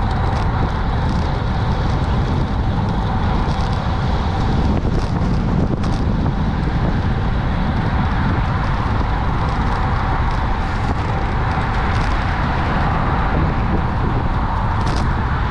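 Steady wind and road rush on a moving action camera's microphone, with traffic noise.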